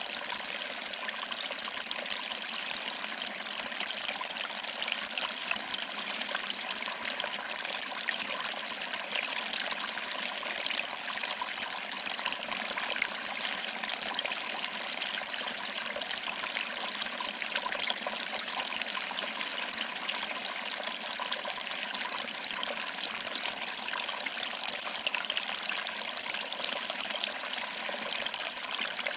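Small waterfall trickling over rocks and splashing into a pool below, a steady, even water sound with a bright, hissy character.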